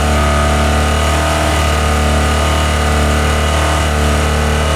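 Burnout car's engine running loudly at a steady, unchanging pitch, held at constant revs.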